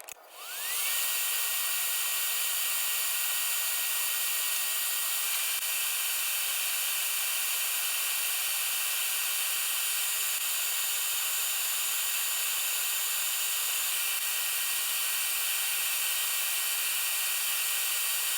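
TIG welding arc on stainless steel tubing: a steady hiss with a thin high whine that rises in pitch as the arc strikes, then holds steady.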